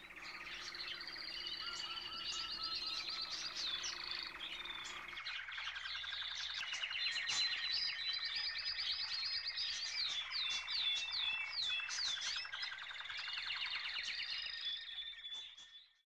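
Several songbirds singing at once: many quick overlapping chirps, trills, whistles and falling notes, fading out near the end.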